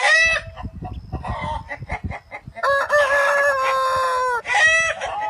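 Rooster crowing and clucking: a short call at the start, scattered clucks, then one long, level crow lasting nearly two seconds past the middle, and another short call near the end.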